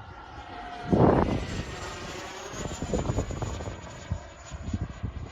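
Electric ducted fan of an FMS BAE Hawk RC model jet in flight: a steady high whine, with a sweeping tone as the model passes. A loud rush of wind noise hits the microphone about a second in.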